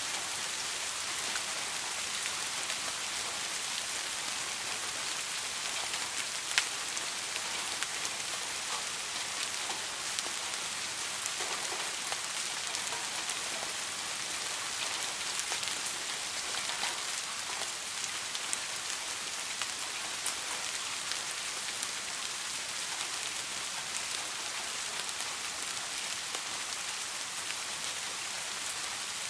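Soft rain falling steadily: an even hiss with scattered individual drops ticking, one sharper drop about six and a half seconds in.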